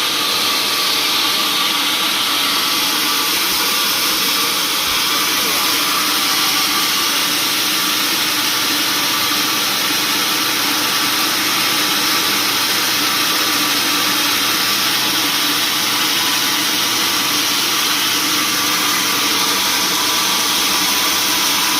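Sawmill machinery running steadily: a loud, unchanging mechanical drone with a few held tones.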